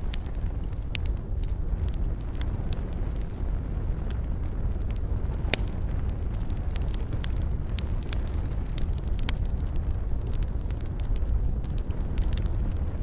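Wood fire burning in a fireplace, crackling with many irregular small pops over a low steady rumble, with one sharper pop about halfway through.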